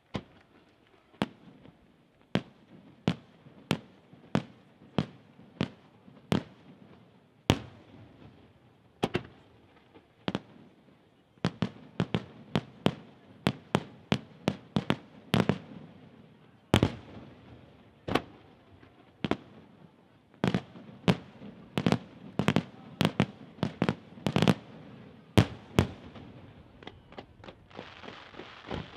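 Aerial firework shells bursting in a run of sharp bangs. The bangs come about one and a half a second at first, then in faster, overlapping volleys. Near the end they give way to a dense hiss.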